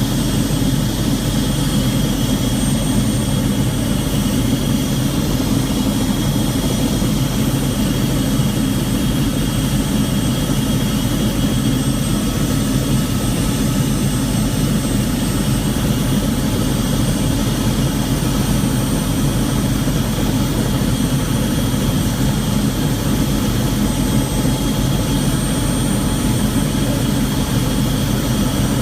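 Helicopter engine and rotor running steadily in flight, heard from inside the cabin: a loud, even drone that does not change.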